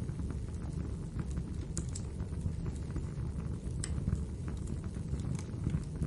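Wood fire burning in a fireplace: a steady low rumble of flames with scattered sharp crackles and pops, a few louder snaps spread through.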